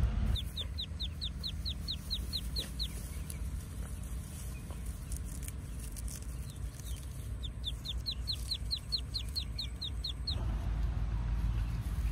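A small bird calling: two quick runs of about a dozen high, falling whistled notes each, a few seconds apart, over a low steady rumble.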